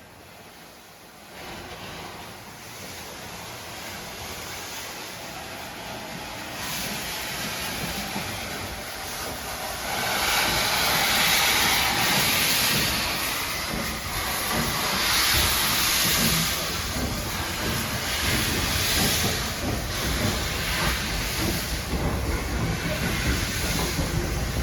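A train running through a station, growing steadily louder as it comes closer, with bursts of hiss about ten seconds in and again about fifteen seconds in.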